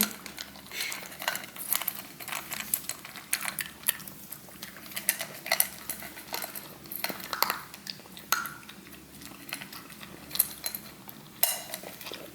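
Pembroke Welsh corgi puppy eating dry food from a bowl: a run of quick, irregular clinks and clicks as food and bowl knock together.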